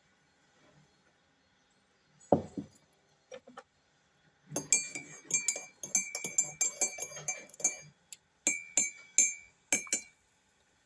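Rapid light clinking with a ringing tone, a quick flurry of strikes for a few seconds and a few more strikes near the end, after a single dull thud.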